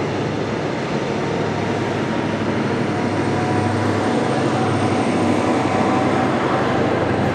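CrossCountry Class 43 HST going by: the diesel power car's engine running and the coaches rolling over the rails in a steady rumble with a low hum, growing a little louder about halfway through.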